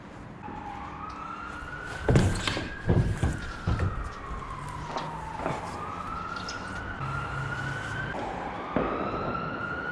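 Emergency vehicle siren wailing, its pitch slowly rising and falling. A few loud sharp bangs sound about two to four seconds in.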